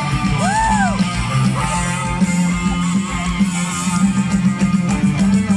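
Live rock band playing through a concert sound system, strummed electric guitar to the fore over a steady bass line. A brief note swoops up and back down in pitch about half a second in.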